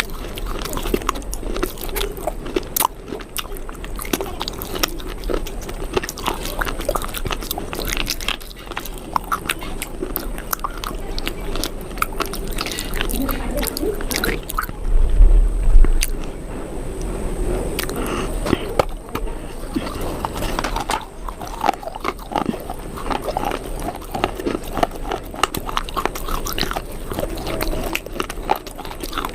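Close-miked chewing and biting: a steady run of irregular crunchy, wet mouth clicks. A louder low thump comes about fifteen seconds in.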